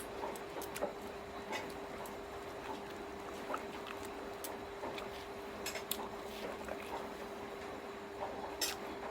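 Close-up eating sounds: irregular wet clicks and smacks of chewing chicken feet, over a steady low hum.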